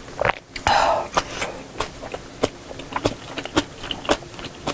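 Close-miked eating sounds: irregular wet mouth clicks and smacks of chewing, two or three a second, with a short breathy rush about a second in.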